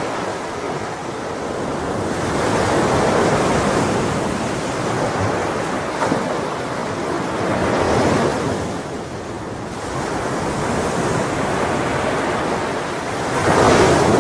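Ocean waves breaking and washing in, swelling and ebbing every few seconds, with the loudest surge near the end.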